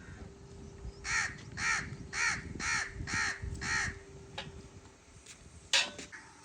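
Crow cawing, six calls in quick succession at about two a second, then a sharper, louder call near the end.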